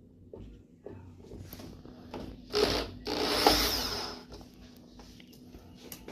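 Cordless drill or power screwdriver running in two short bursts, a brief one about two and a half seconds in and a longer one just after, with light clicks of tool and parts handling around them.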